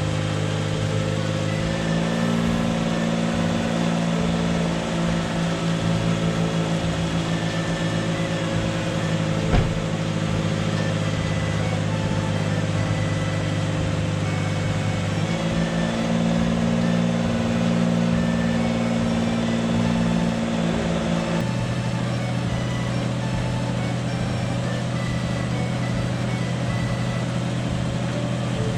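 Suzuki Jimny engine idling steadily, its idle speed stepping up and down a few times, with one sharp click about ten seconds in.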